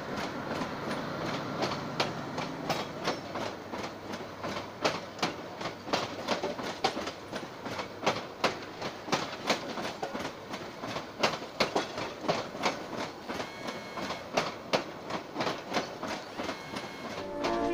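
Passenger train carriages rolling slowly past, their wheels clicking over the rail joints in a long series of clacks over a steady rumble.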